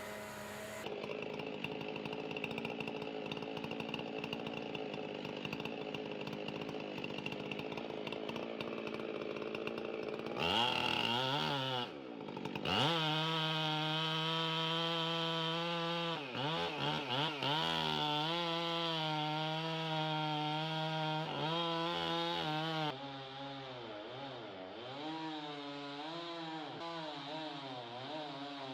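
Chainsaw running hard while cutting into a large tree. Its engine pitch drops sharply and recovers about twelve seconds in, dips a few more times, then settles lower and unsteady near the end.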